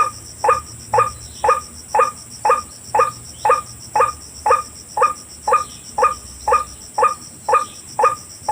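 White-breasted waterhen call, one short pitched note repeated very evenly about twice a second, over steady high insect trilling.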